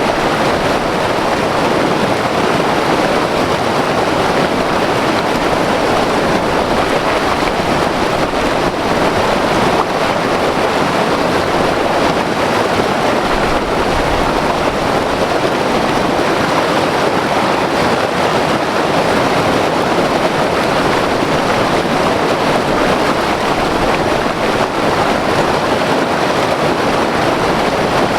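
White-water mountain river rushing over rocks: a loud, steady roar of turbulent water.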